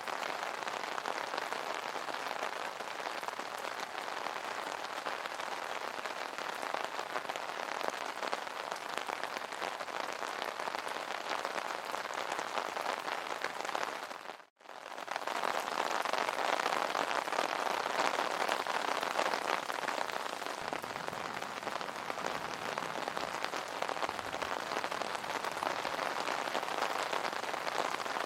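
Steady rain pattering on an umbrella canopy. About halfway through it dips almost to nothing for a moment, then comes back a little louder.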